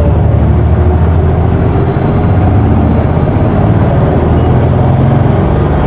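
Isuzu PKG-KV234L2 city bus's diesel engine pulling away from a stop, heard from inside the cabin: a loud, low engine note that climbs steadily in pitch as the bus accelerates.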